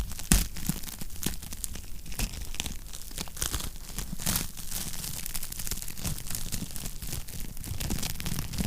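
Wood fire crackling in a fireplace: dense, irregular pops and snaps over a low steady rumble, with two louder pops right at the start.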